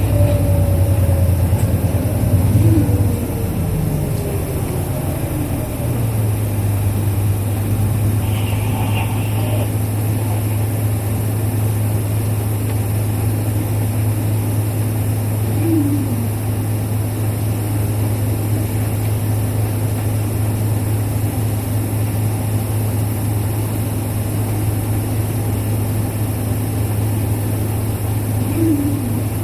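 Isuzu Erga KL-LV834L1 bus's V8 diesel engine heard from inside the cabin, its pitched whine falling as the bus slows to a halt, then idling steadily at the stop.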